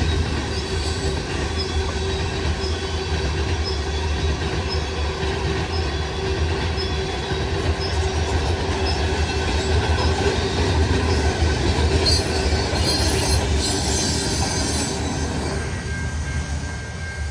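Intermodal/mixed freight cars rolling steadily past on the rails, with brief high squealing bursts about twelve seconds in; the sound dies down near the end as the train moves off.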